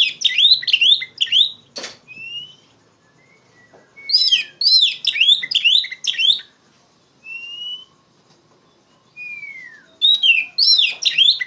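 Oriental magpie-robin (kacer) singing loudly in three bursts of rapid, repeated chattering notes, with single clear whistled slurs in the gaps between them.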